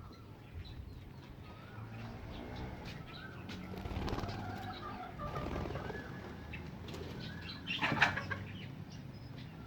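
Caged birds, including doves or pigeons: low cooing with short chirps, and a brief loud burst of sound about eight seconds in.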